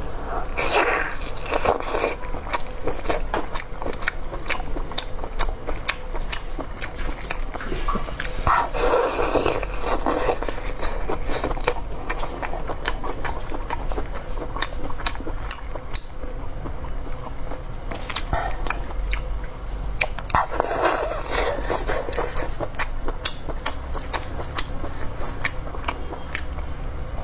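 Close-miked chewing and biting of braised pork intestines: wet mouth clicks and smacks throughout, with louder chewing bursts about a second in, around nine seconds and around 21 seconds.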